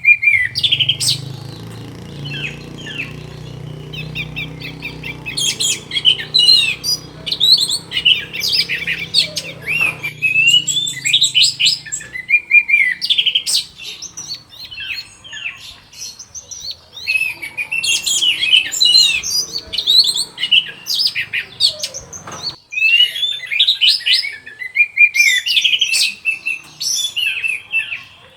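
Orange-headed thrush (anis merah) singing a fast, varied stream of high whistled and chattering phrases, broken by short pauses. A low steady hum runs under the song for about the first twelve seconds, then stops.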